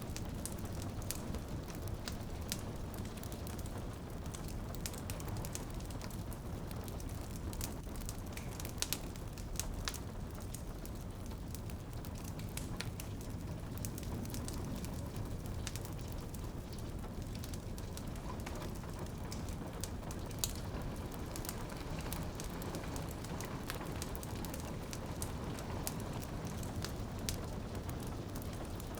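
Crackling wood fire with frequent sharp pops and snaps over a steady low rumble, mixed with rain on a window.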